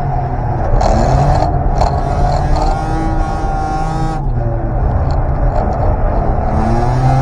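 The engine of a rear-drive-converted Daihatsu Mira revs up and down under hard driving, its pitch rising and falling with throttle and gear changes, with short bursts of hiss. The owner says the engine has developed a slight tappet-like noise after a drift at the rev limiter.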